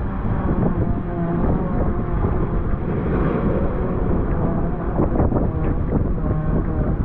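Strong wind buffeting the microphone over rough sea crashing and surging against the shore, with a few louder surges of spray and wash partway through.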